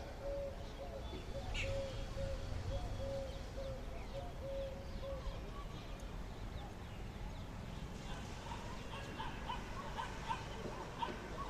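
Birds calling: a run of short, evenly spaced low notes for the first half, then a quicker series of higher short notes near the end, over a steady low rumble.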